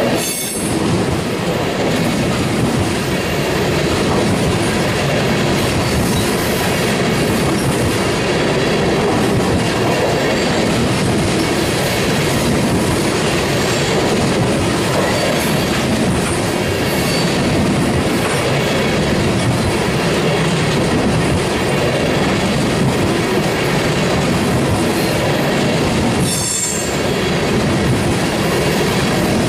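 Tank cars of a loaded oil train rolling steadily past. The wheels clatter over the rail joints, with a continuous rumble and rattle throughout.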